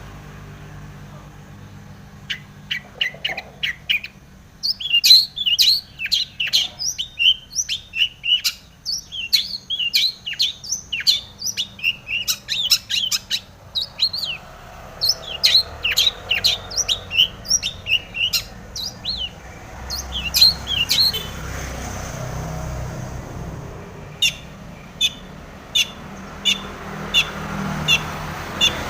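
Long-tailed shrike (cendet) singing a fast, varied song of chirps and trills full of other birds' songs it mimics. From about two-thirds of the way in, the song changes to a steady series of short, clipped notes, roughly one and a half a second.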